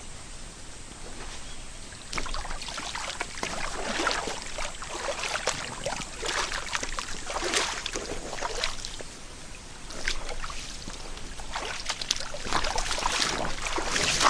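Someone wading through a shallow mountain stream: irregular splashing sloshes of water, roughly one a second, over the stream's steady running water.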